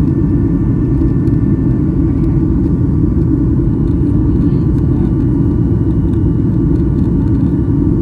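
Steady cabin rumble of a Boeing 737-800 in flight, from airflow and its CFM56 engines, heard from inside the passenger cabin, with a faint steady engine whine above the low roar.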